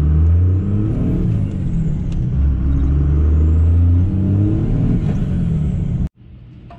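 Duramax turbodiesel V8 pickup accelerating at full throttle. The engine note climbs, drops at an upshift about two seconds in, then climbs again, with a high turbo whistle rising and falling above it. The sound cuts off abruptly near the end.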